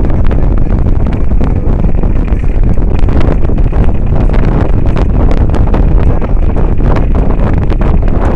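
Boat under way, its engine running under heavy wind noise on the microphone, with irregular knocks and slaps throughout.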